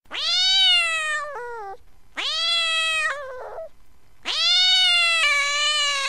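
Domestic cat meowing in long, drawn-out upset calls, three of them. Each call sweeps up at the start and ends in a wavering drop, and the third is still going at the end.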